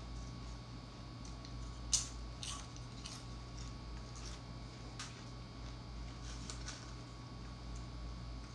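Tortilla chips being chewed: a few sparse, sharp crunches, the loudest about two seconds in, over a steady low hum.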